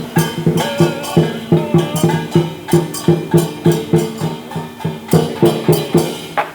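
Dragon dance percussion playing a steady driving beat, about three strokes a second, with cymbal clashes over low drum and gong tones.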